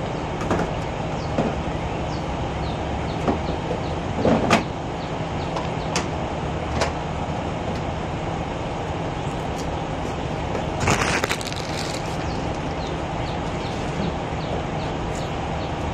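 Car engine idling steadily, with scattered sharp clicks and knocks as an infant car seat carrier is set into the back seat; a short rustling scrape about eleven seconds in.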